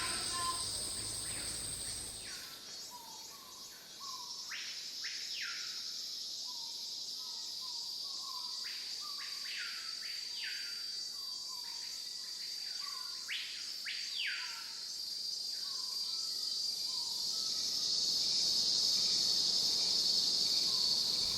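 Steady high-pitched drone of rainforest insects, with a bird calling over it in many short, repeated notes. The insect drone grows louder near the end.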